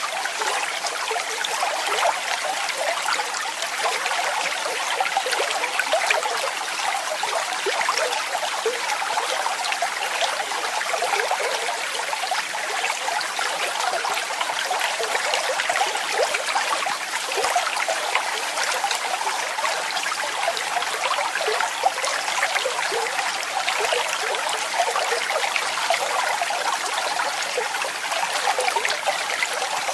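Waterfall: falling water splashing steadily, with no deep rumble.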